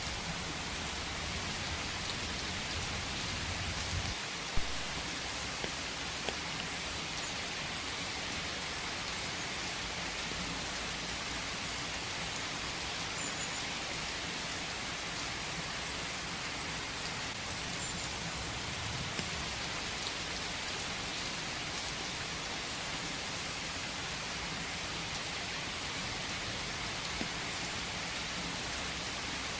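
Steady rain falling, with scattered individual drops ticking and one sharper, louder tap about four and a half seconds in.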